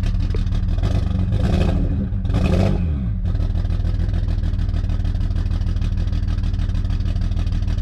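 BMW 335i turbocharged inline-six revved twice in quick succession, each blip falling back, then idling unevenly. The roughness is taken for a misfire.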